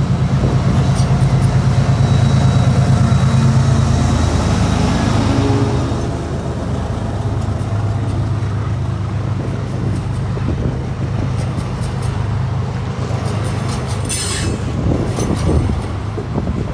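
Freight train passing close by: a low, steady diesel locomotive drone, loudest for the first several seconds and then easing as the wagons roll past. Near the end there is a brief high hiss.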